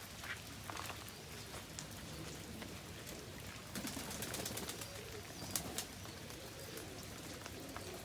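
Domestic pigeons in a loft cooing, with a few short bursts of wing flapping, over a steady hiss.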